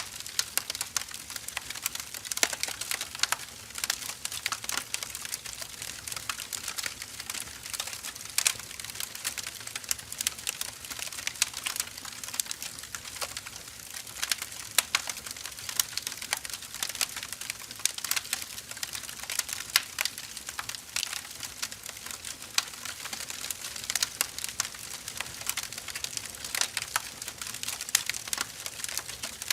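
Wood fire burning: a steady stream of irregular crackles and pops over a soft hiss.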